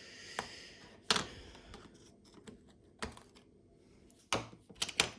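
Plastic key fob shell being pried apart with a screwdriver: scattered sharp clicks and snaps of plastic, the loudest about a second in and several close together near the end.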